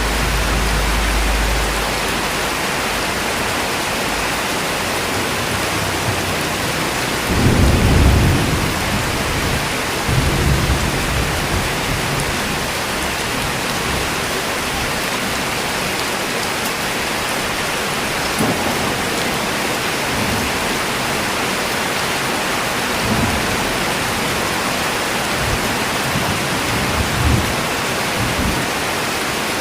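Steady rain, with low rumbles of thunder now and then, the loudest about eight seconds in.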